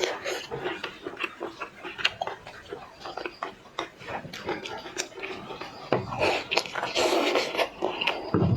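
Eating sounds from a lobster being eaten: wet chewing with many small clicks and smacks, growing louder and fuller about six seconds in.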